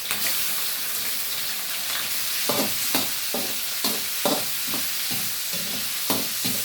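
Chicken pieces sizzling in hot oil with garlic, a steady frying hiss. About two and a half seconds in, stirring begins: the spatula knocks and scrapes against the pan about twice a second.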